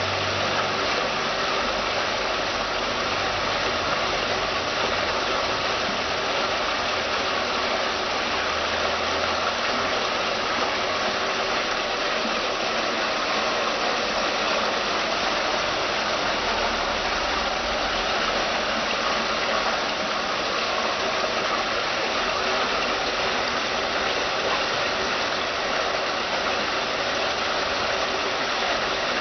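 Water from a stepped cascade fountain pouring steadily over its stainless-steel steps, an even rushing splash.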